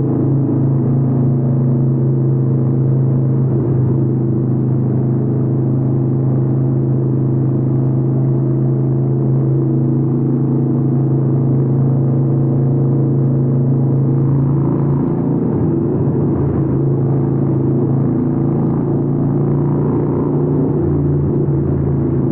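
Harley-Davidson 883N's air-cooled V-twin running through Vance & Hines aftermarket exhausts at a steady cruising speed. The engine note holds mostly steady, shifting slightly a little past the middle and again near the end.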